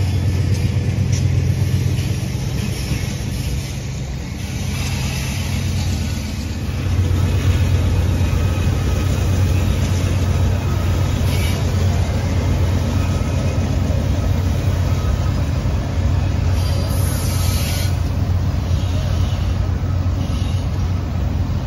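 Diesel freight locomotives running with a steady low drone and the rumble of a train, easing slightly a few seconds in before building again.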